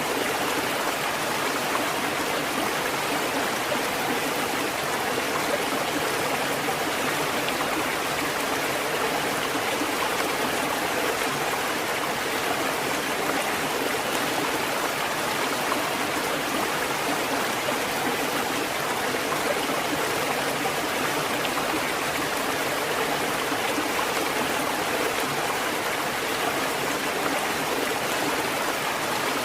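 Water fountain running steadily, an even, unbroken splashing of flowing water.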